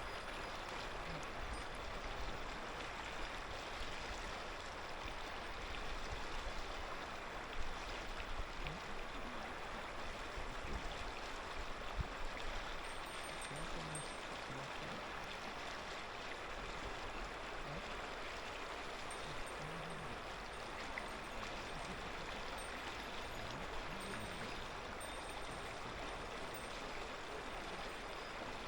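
Clear mountain river flowing and babbling over stones, a steady rushing with small gurgles.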